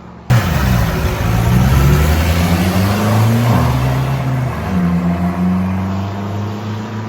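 A 4x4's engine at full throttle on a mud drag run, starting suddenly, its pitch rising and dropping several times as it revs, then slowly fading.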